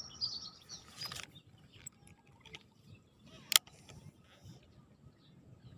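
Birds chirping in quick high calls for about the first second, then a single sharp click about three and a half seconds in.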